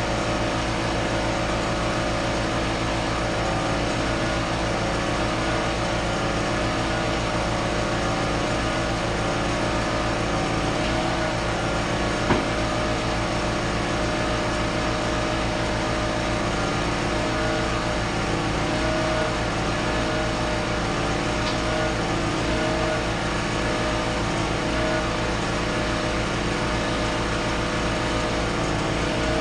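An engine running at a steady, even speed, with one short sharp click about twelve seconds in.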